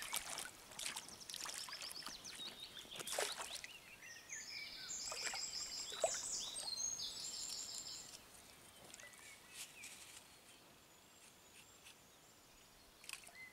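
A songbird singing repeated phrases of high, stepped notes over faint outdoor ambience, with a few sharp clicks and knocks mixed in; the song stops after about eight seconds and it goes quieter.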